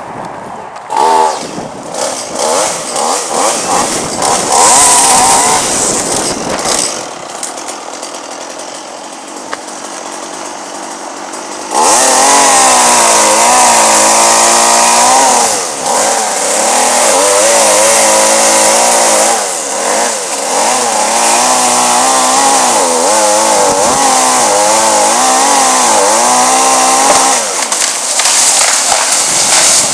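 Two-stroke chainsaw running, its engine pitch rising and falling as it is revved and cuts wood. It runs quieter for a few seconds, then loud for most of the second half.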